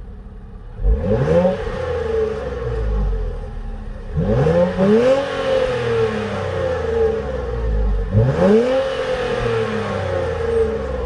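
Infiniti Q60's VR30DDTT twin-turbo V6 exhaust revved three times from idle, each rev climbing quickly in pitch and then falling slowly back.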